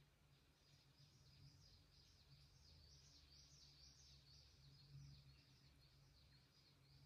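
Faint bird song: a fast, even run of high notes, each rising and falling, about three a second, over a low steady hum.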